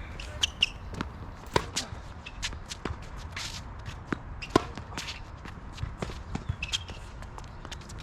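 Footsteps and shoe scuffs on a tennis court with scattered sharp knocks, a dozen or so at uneven intervals, and a couple of brief high shoe squeaks.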